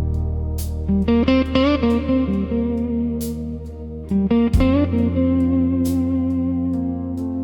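Instrumental slow blues music: electric guitar playing bent notes over a sustained low bass, with sharp percussive hits keeping a slow beat.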